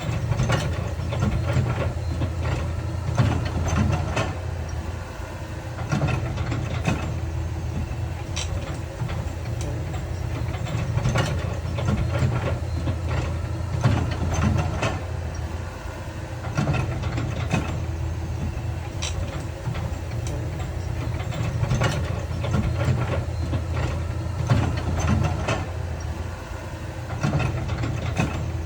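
Heavy earthmoving machinery's diesel engine running steadily, with irregular sharp clanks and knocks every second or two.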